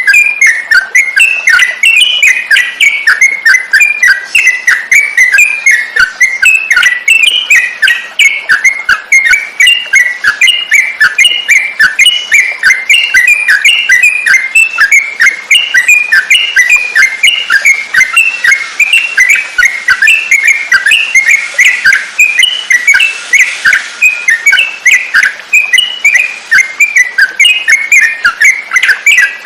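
Yellow-vented bulbul (trucukan) song, played as a masteran tutor recording: a loud, unbroken run of quick chirping and whistled phrases, several notes each second.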